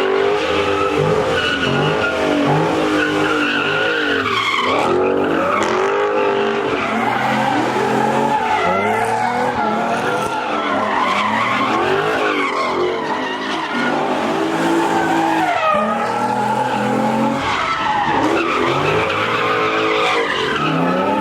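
A Camaro and a Dodge 392 Hemi V8 revving hard through sliding stunts, engine notes rising and falling again and again over continuous tire squeal and skidding.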